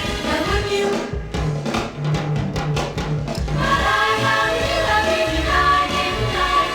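Early-1960s pop record: a band with drums and singing voices. A stretch of drum hits over a held bass note comes about a second in, and the voices come back strongly at about four seconds.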